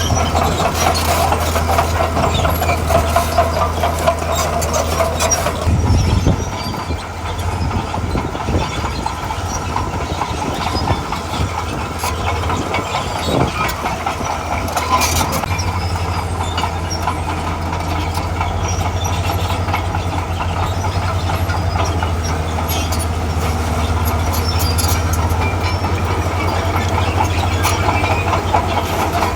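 Heavy diesel crawler machinery working: a deep steady engine note with steel tracks clanking and clattering. The engine note eases off about six seconds in and comes back up about halfway through.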